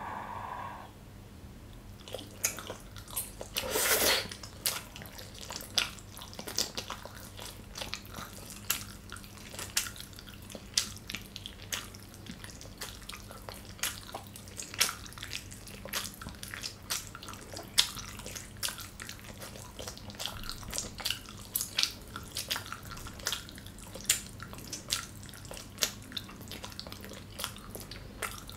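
Close-up open-mouth chewing of gyoza dumplings: irregular wet clicks and smacks of the mouth, several a second, with a louder wet squish about four seconds in.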